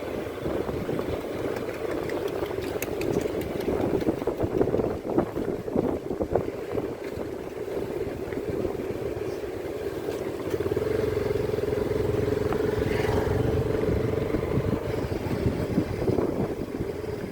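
Motor vehicle running on the move: a continuous engine and road noise with scattered knocks and bumps in the first half. Partway through the engine note steadies and grows louder for a few seconds.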